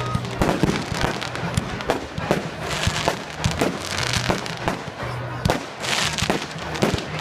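Fireworks going off, a rapid, uneven run of sharp bangs and crackles, with background music playing underneath.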